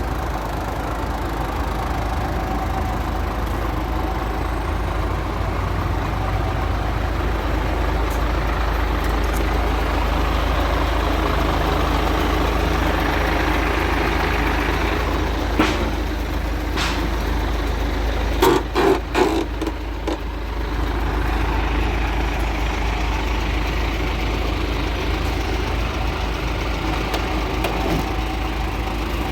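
Heavy truck diesel engine idling steadily, with a few sharp knocks past the middle, the loudest a quick cluster of them.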